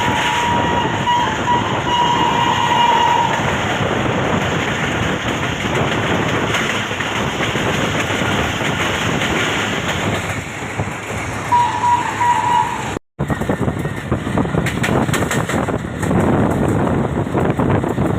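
Passenger train running at high speed, with a steady rush of running noise. The train horn sounds one steady note for about the first three seconds and again briefly, for about a second, a little before two-thirds through. The audio drops out for a moment just after that and resumes with the same running noise.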